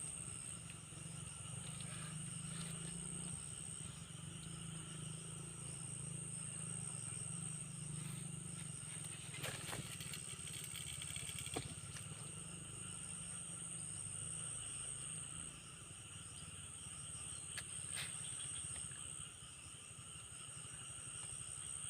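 Insects chirring in a steady, continuous high drone over a low, even rumble, with a few faint clicks around the middle.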